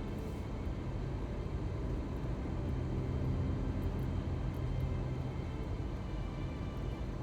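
A steady low engine rumble, holding an even pitch with a slight swell in the middle.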